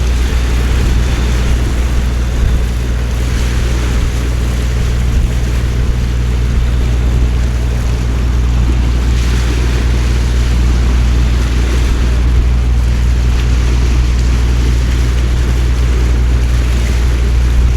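Heavy rain pouring down steadily over a steady low rumble, the hiss of the downpour swelling briefly a few times.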